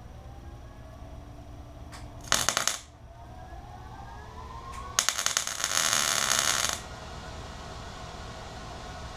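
Metal parts clattering in two bursts, a short one about two seconds in and a longer one around five to seven seconds, over a low steady workshop hum.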